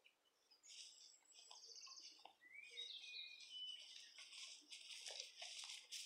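Faint songbird calls: a quick trill, then whistled notes that glide up and down. In the second half, soft rustling footsteps through long dry grass.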